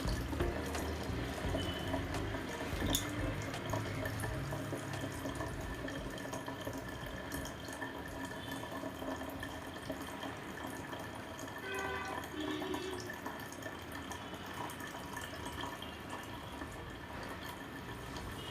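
Water trickling and dripping steadily in a miniature tabletop fountain.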